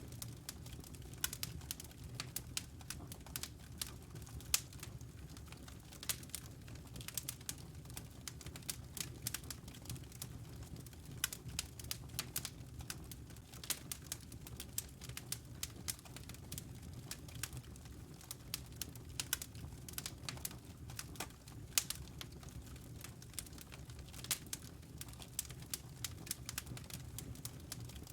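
Wood fire in a fireplace crackling: dense, irregular snaps and pops over a steady low rumble of flame, with a few louder pops standing out.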